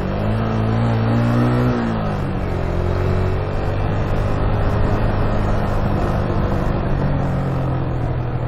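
Motorcycle engine under way, climbing in pitch as it accelerates over the first two seconds, then easing off and running steadily.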